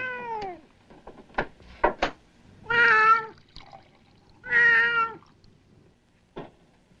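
A domestic cat meowing three times: the first meow falls in pitch and the next two are held steady, each about half a second long. A few light clicks fall between them.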